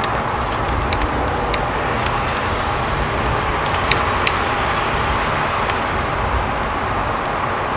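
Steady outdoor background noise like distant road traffic, with scattered short, high ticks and chirps from the feeding area about a second in and again around four seconds in.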